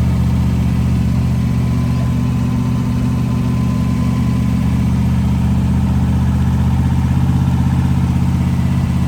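Car engine running at a steady idle, a deep even rumble, its pitch shifting slightly about seven seconds in.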